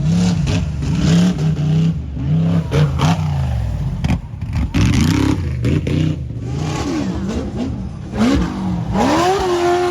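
Off-road prerunner race truck engine revving hard, its pitch climbing and dropping over and over as it runs a dirt track, with several sharp knocks and clatter from the truck over the bumps. A strong rising rev comes near the end.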